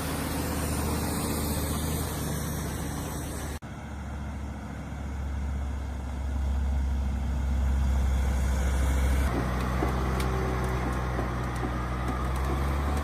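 Heavy-haul truck engine running with a steady low drone. The sound changes abruptly twice, about a third of the way in and again past the middle.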